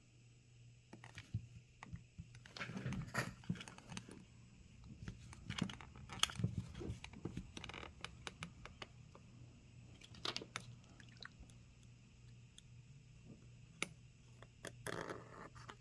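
Small hand tools scraping and prying at a smartphone's glued screen, making irregular crunching, scratching and clicking sounds in short bursts. The adhesive is still holding and has not been heated enough to release.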